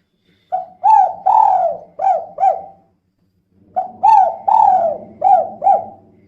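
Female spotted dove (tekukur) cooing in two phrases of about five short coos each, with a pause of about a second between them.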